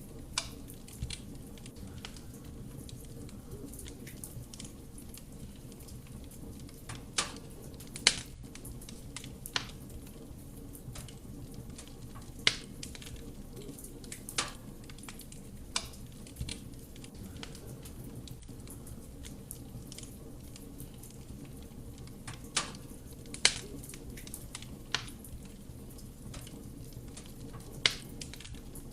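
Wood fire burning in a fireplace: a steady low rush of flame with scattered sharp crackles and pops from the burning logs, a dozen or so loud snaps at irregular intervals.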